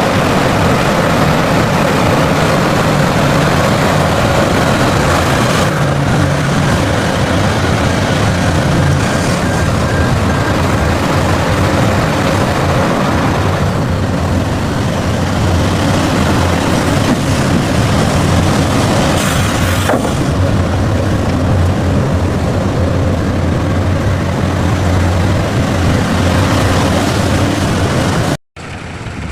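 Heavy vehicle engines running, loud and steady, in a string of short clips whose sound changes abruptly about 6, 14 and 20 seconds in, then cuts out briefly just before the end.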